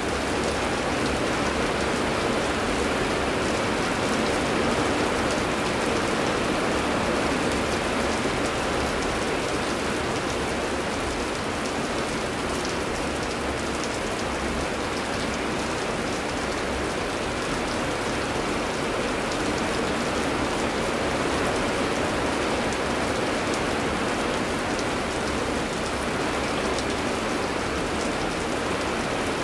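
Heavy rain falling steadily: a dense, even hiss with scattered drops pattering through it.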